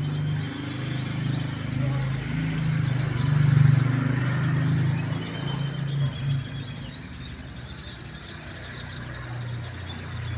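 Several little spiderhunters (sogon) singing, with fast, high-pitched rattling trills overlapping throughout. A low mechanical drone runs underneath, swelling about three and a half seconds in.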